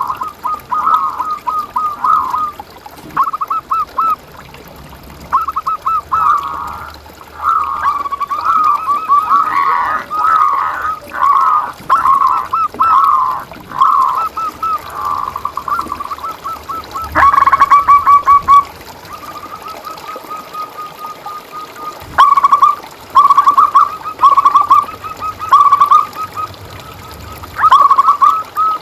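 Zebra doves (perkutut) cooing in rapid, rolling, stuttering phrases, one after another with short gaps, and a softer even trill in between.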